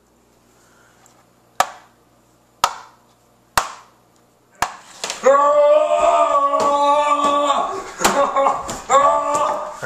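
Four sharp knocks or slaps, about a second apart, then loud voices calling out through the second half, which no words could be made out of.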